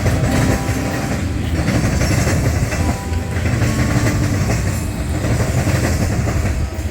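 Train rolling past, a loud steady rumble of rail cars with the clickety-clack of wheels over rail joints.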